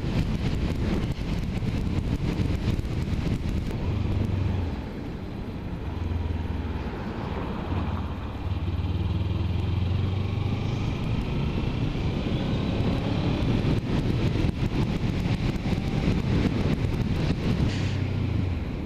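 Kawasaki Ninja 300's parallel-twin engine running while riding, a steady low hum under heavy wind noise on the microphone; the engine note and level dip briefly a couple of times.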